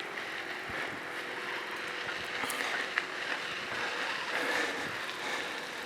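Steady rushing noise of a bicycle ride, tyres on the path and air over the microphone, with one sharp click about three seconds in.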